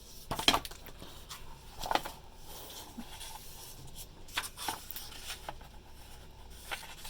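Paper rustling and light handling knocks as the pages of a picture book are turned, with two louder rustles about half a second and two seconds in and fainter ones later.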